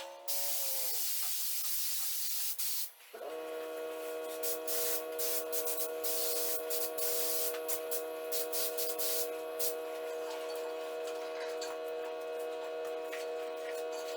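Automotive paint spray gun hissing as a light first coat of colour is sprayed over primer, with short gaps as the trigger is released. About three seconds in, a steady machine hum of several even tones starts and runs under the spraying.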